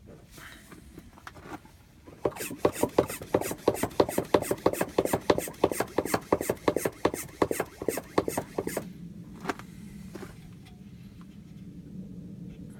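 A fast, even run of sharp clicks, about five a second, lasting some six seconds and then stopping abruptly, over a low steady hum.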